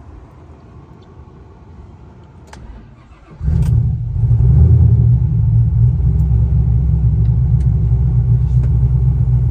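2010 Chevrolet Camaro engine, hot from a drive, cranking briefly and firing about three seconds in. It flares, then settles into a steady idle. It starts up strong: the new starter and heat blanket have overcome the heat-soak hard start.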